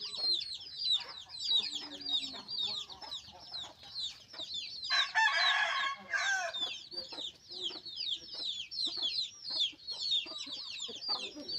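Chickens with chicks: a constant stream of high, falling peeps, and a rooster crowing once about five seconds in.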